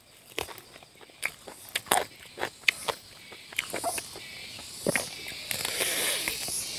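Close-up chewing and biting on a chicken leg: a string of crisp clicks and crunches from the mouth. From about halfway, a high-pitched insect chorus rises behind it, pulsing about once a second and growing louder toward the end.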